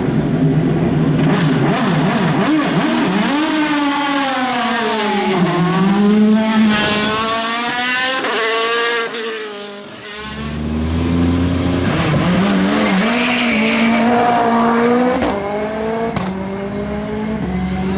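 Hill-climb race car engine revving hard and accelerating away from the start, its pitch climbing and dropping through the gear changes, with a brief burst of hiss about seven seconds in. The sound dies down near the middle, then another race car's engine revs up with a deep rumble and climbs again.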